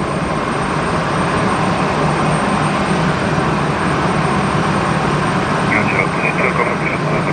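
Jet airliner engines running with a steady noise.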